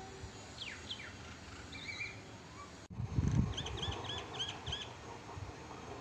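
Small bird singing: a few short downward chirps and a brief chatter, then a quick run of about six repeated hooked notes. A low rumble sounds about halfway through.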